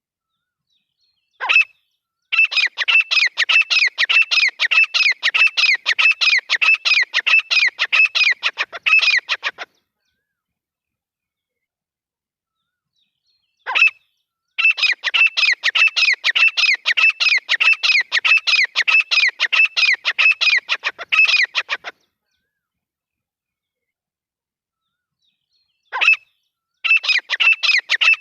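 Grey francolin calling: a single sharp note, then about seven seconds of rapid, evenly repeated calls, broken off into dead silence. The same phrase comes three times at roughly twelve-second intervals, as in a looped hunting-call recording.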